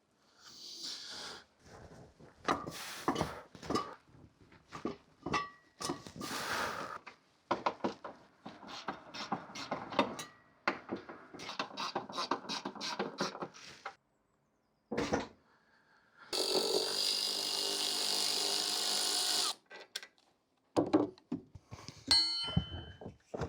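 Hand-tool work on car subframe bolts: a long run of clicks, knocks and clanks, and about two-thirds of the way through a power tool runs steadily for about three seconds.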